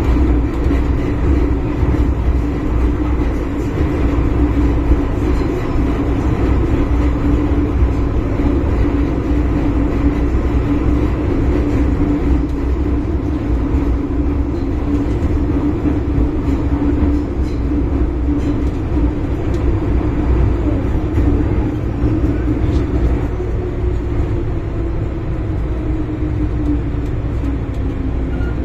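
Inside a Hong Kong MTR M-Train: steady wheel-on-rail rumble with the traction motors' hum as the train runs through a tunnel. Over the last few seconds the hum falls in pitch as the train slows into a station.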